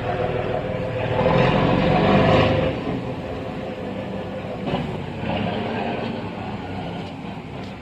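Large fishing boat's diesel engine running as the boat comes in to dock, swelling for a couple of seconds about a second in, then settling to a steadier, lower level.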